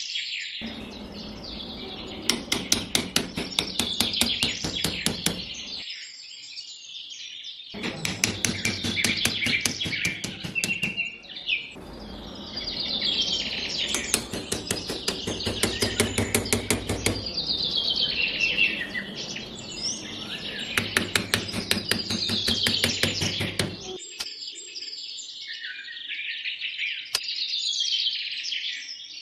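Birds chirping and singing. Under them, in long stretches, runs a rapid, even ticking with a low hum, which stops about three quarters of the way through and leaves only the birdsong.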